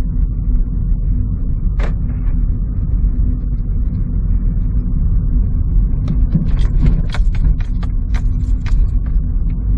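Car on the move heard from inside the cabin: a steady low rumble of engine and road noise, with a single tick about two seconds in and a run of light clicks and rattles about six to nine seconds in.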